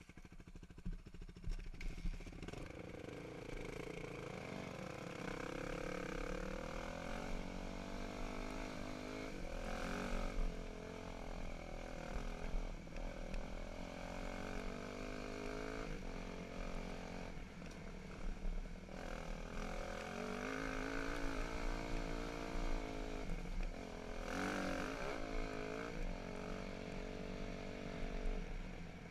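Dirt bike engine running as it is ridden, its pitch repeatedly rising and falling as the throttle opens and closes.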